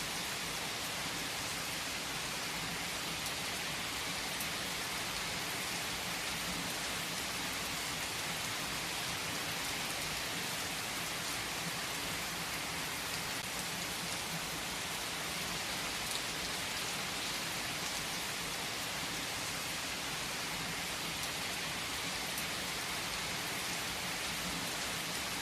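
Steady rain falling on a surface, a dense even hiss, with a few faint sharp crackles from a wood fire.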